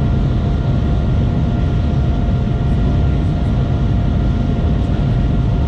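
Shanghai Transrapid maglev train cruising at high speed, heard inside the passenger cabin: a steady low rumble and rush of air with a faint, constant high whine.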